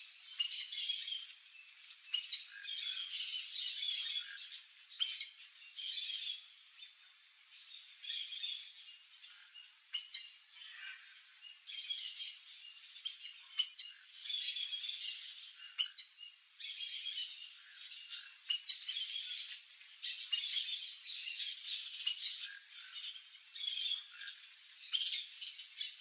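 Birds chirping and twittering in quick, high-pitched bursts every second or two.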